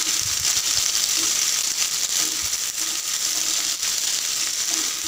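Sliced onions and green capsicum sizzling steadily in hot mustard oil in a non-stick pan, stirred with a silicone spatula that adds a few soft knocks.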